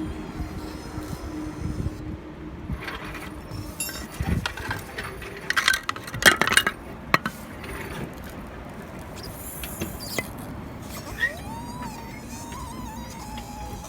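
Kia Ceed 2 on the move, a steady road rumble with a burst of sharp knocks and clinks from the rear suspension about four to seven seconds in: the suspension knock being shown as a fault. A thin whine rises and holds near the end.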